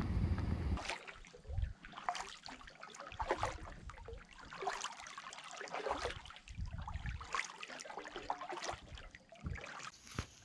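Kayak paddle strokes: water splashing and dripping off the blades in irregular small bursts. Wind rumbles on the microphone for the first second.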